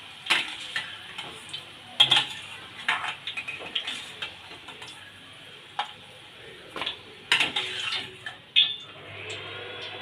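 Metal spoon scraping and clinking against a pan in irregular knocks while stirring, over a light sizzle of frying oil.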